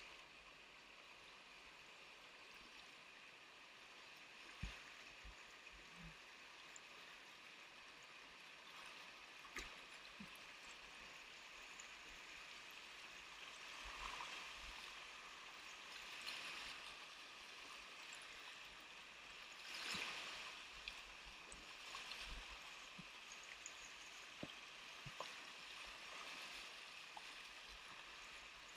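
Faint, steady rush of whitewater river current, swelling a few times, with occasional short knocks.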